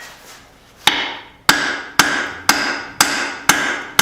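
Cross-peen hammer striking hot steel on an anvil, one blow about a second in and then a steady rhythm of about two blows a second, each with a short metallic ring. The blows are widening the hatchet head.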